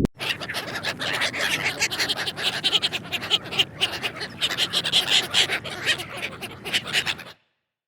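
Animal calls in a rapid, dense chatter, cutting off suddenly near the end.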